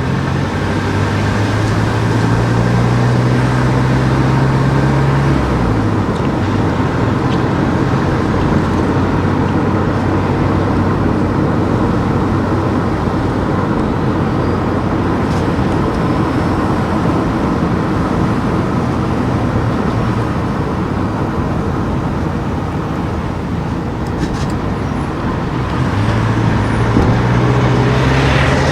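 A car driving, with steady engine and road noise. A low engine hum stands out for the first few seconds and comes back near the end; in between it is mostly an even rush of tyres on the road.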